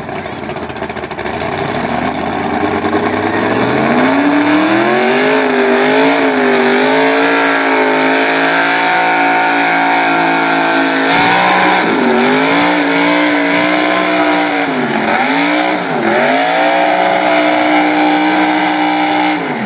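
Super stock 4x4 pulling truck's engine at full throttle hauling the sled. The revs climb over the first few seconds and then hold high with a wavering pitch. They dip sharply about eleven seconds in, and twice more around fifteen and sixteen seconds, before the engine is shut off abruptly near the end.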